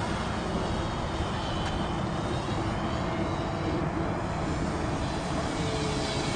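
Radio-controlled model airplane in flight, its motor running with a steady buzz and faint shifts in pitch as it flies about.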